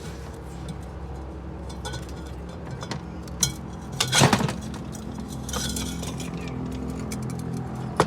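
Metal transmission parts clinking and knocking together as a component of a ZF 8HP automatic gearbox is worked into its drum. There are a few sharp clinks, the loudest cluster about halfway through, over a steady low hum.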